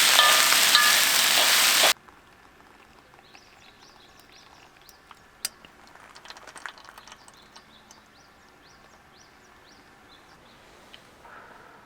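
Food sizzling loudly in a hot pan, cutting off suddenly about two seconds in. Then a quiet outdoor background with faint, repeated short high chirps and a few soft clicks.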